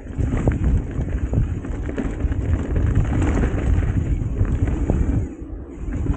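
Wind buffeting the camera microphone in a steady low rumble, with scattered clicks and knocks, as from a mountain bike riding a dirt trail. It eases off briefly near the end.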